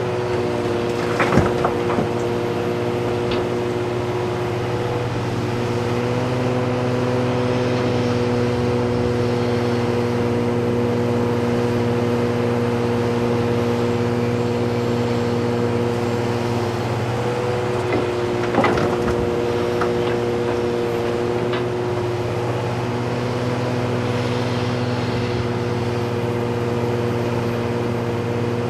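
Heavy diesel engines of excavators and haul trucks running steadily under load, with a short clatter of knocks about a second in and again around eighteen seconds.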